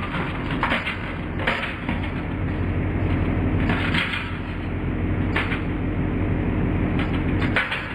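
Hydraulic press running with a steady low hum as it crushes an aluminium geyser coffee maker. About eight sharp cracks and crunches of the aluminium giving way come at irregular intervals, some in quick pairs.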